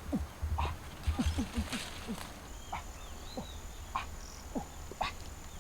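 An animal's short whimpering cries, repeated irregularly, each one falling quickly in pitch.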